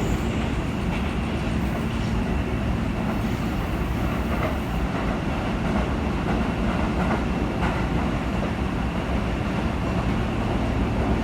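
Yokohama Municipal Subway 4000 series train running steadily between stations, a continuous rumble of wheels on rail and running gear that holds an even level throughout.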